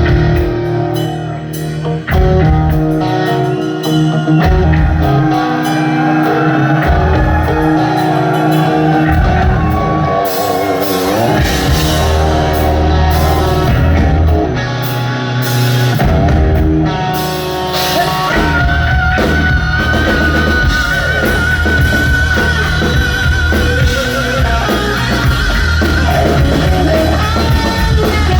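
A live hard rock band playing loud distorted electric guitar over a drum kit, with a long wavering high note about two-thirds of the way in.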